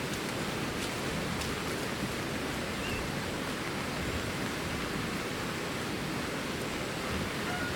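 Steady, even hiss of water, from rain or flowing floodwater, with no let-up.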